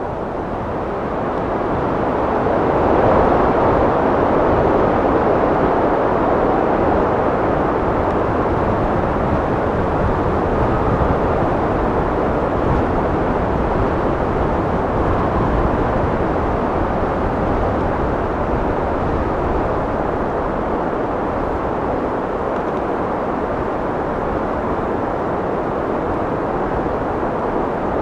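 Wind blowing as a steady rushing noise, swelling in a gust a few seconds in and then easing slowly.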